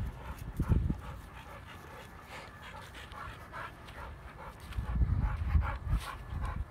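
A dog panting close by in quick, rhythmic breaths, loudest in the last couple of seconds.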